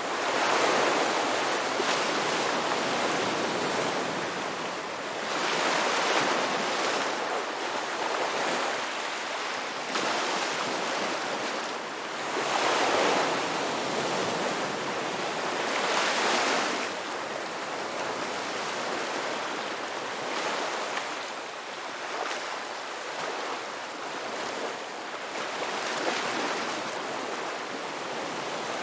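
Ocean waves breaking on a beach: a steady wash of surf that swells with each breaking wave, several seconds apart, with stronger breakers in the first half and gentler ones later.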